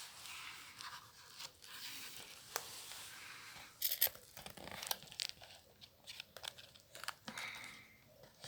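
Paper book packaging being torn open and crinkled by hand: a rustling tear for the first few seconds, then irregular sharp crackles of handled paper.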